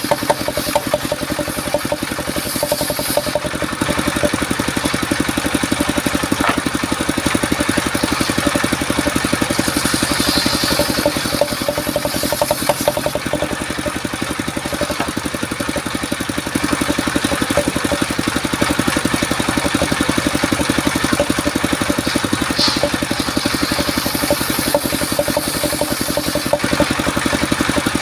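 Engine of a portable circular-saw sawmill running steadily, its level easing off slightly about halfway and picking up again a few seconds later.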